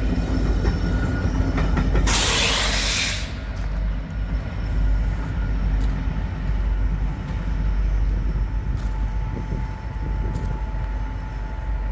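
Rear distributed-power BNSF SD70ACe diesel locomotives of an empty coal train rolling past with a steady low rumble. Their engine tone fades after the first few seconds, and a brief loud hiss comes about two seconds in.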